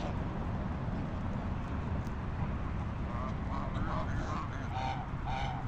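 Several short bird calls, coming more often in the last couple of seconds, over a steady low rumble.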